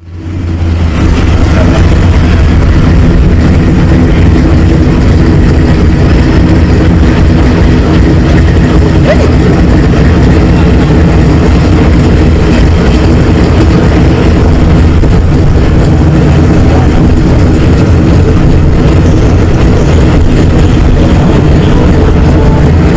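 A car engine running steadily and loudly at a constant speed, with a deep, even hum that does not change.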